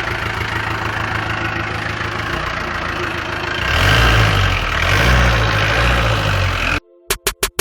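Mahindra 540 jeep's Peugeot diesel engine idling steadily with an even pulse, then revved up and let down twice, louder. Near the end the sound cuts off abruptly into a quick stuttering run of beats.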